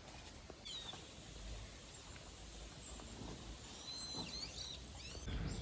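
Faint birdsong outdoors: a few short, high chirps, once about half a second in and again around four seconds, over a low background hum of wind and ambience.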